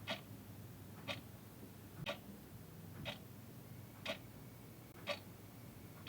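Clock ticking once a second, short even ticks over a faint low hum.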